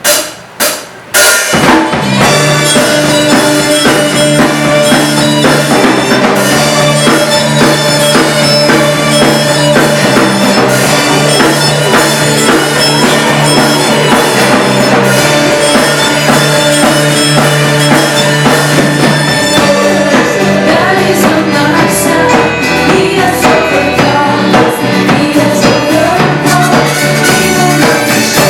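Live band rehearsal: a drum kit and bass with other instruments playing a song together, loud and steady, starting after a few sharp drum hits in the first second or so.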